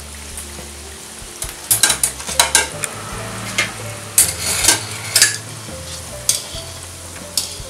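Gulab jamun dough balls sizzling as they fry in oil in a metal kadhai, while a metal slotted skimmer scrapes and clinks against the pan, mostly between about a second and a half and five seconds in.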